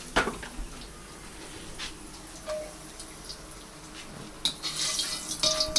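Hot oil sizzling and crackling as fried squid pieces are lifted out of the pot, with a few sharp clicks of a utensil; the crackling grows denser about four and a half seconds in.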